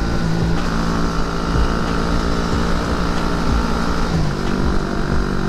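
Honda Winner X's 150 cc single-cylinder engine running at a steady cruise while riding, over wind noise. The engine note dips slightly about four seconds in.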